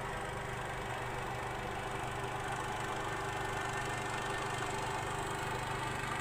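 A small engine running steadily at an even speed, growing slightly louder.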